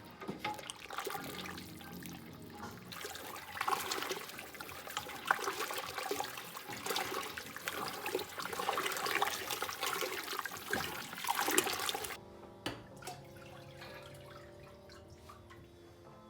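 Water or broth pouring and splashing into a large stockpot, heaviest in the middle and cutting off suddenly about twelve seconds in, over quiet background music.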